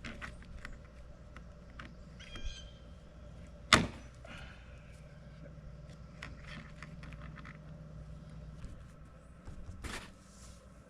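Scattered light clicks and taps from hands-on repair work, with one sharp knock about four seconds in and another near the end, over a faint low hum.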